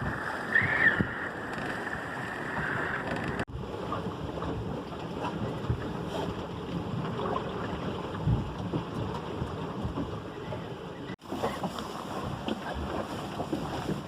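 Wind and water rushing aboard a small sailboat under way, with wind buffeting the microphone. The sound breaks off abruptly twice.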